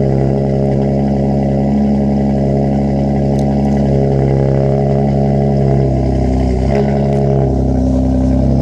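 Chrysler 200 S with a Flowmaster Super 10 exhaust and deleted resonator idling steadily shortly after a cold start. The idle dips briefly and recovers about six and a half seconds in.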